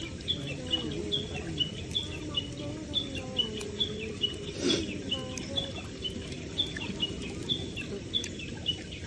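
Cricket chirping in a steady, even rhythm of short high chirps, about two or three a second, with a single sharp click about halfway through.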